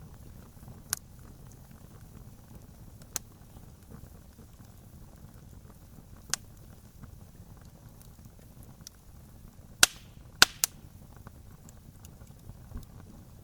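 Wood campfire crackling: sharp single pops every few seconds, with a quick cluster of three near the end, over a low steady rumble of the burning fire.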